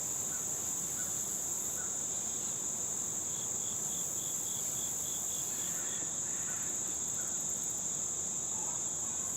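Insects trilling steadily at a high pitch, cricket-like, with a quick run of about a dozen short chirps in the middle.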